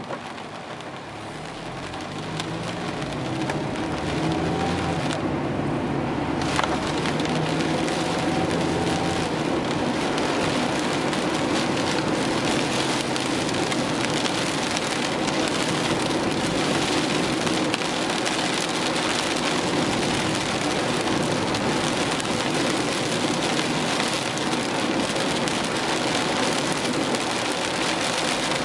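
Heavy typhoon rain and wind, a dense steady hiss that builds over the first few seconds and then holds.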